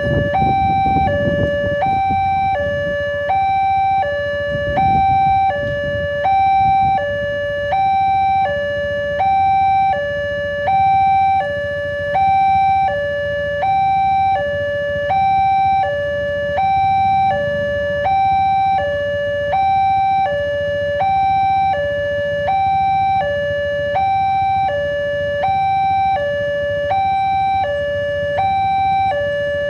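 Railway level-crossing warning alarm sounding continuously, a two-tone electronic signal that alternates between a lower and a higher pitch about every two-thirds of a second, meaning the barrier is down and a train is approaching or passing. A low engine rumble from waiting traffic sits beneath it.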